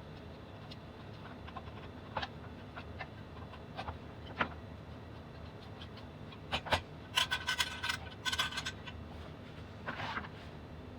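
Small hard parts being handled: scattered light clicks and taps, then a few seconds of rapid rasping, ratchet-like clicking, and a short scrape near the end.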